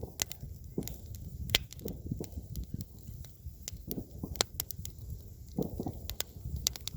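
Campfire burning: wood crackling with frequent irregular sharp pops and snaps over a low steady rumble.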